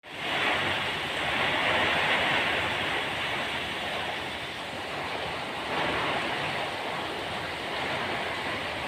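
Heavy rain falling in strong wind, a steady hiss that swells louder about two seconds in and again near six seconds.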